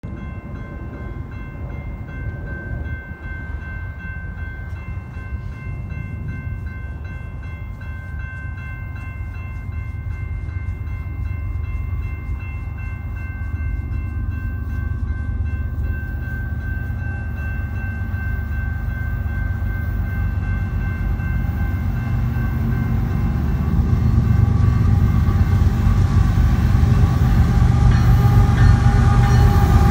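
Approaching BNSF diesel freight train: a low rumble that grows steadily louder as the locomotives near, with a few faint steady high tones ringing above it.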